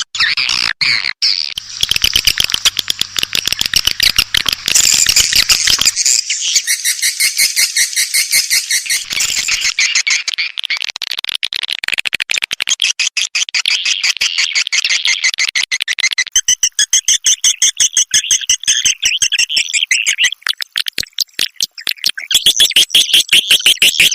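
Edible-nest swiftlet calls: a dense, rapid twittering chirp repeated many times a second, played as a lure sound to attract swiftlets to a nest house.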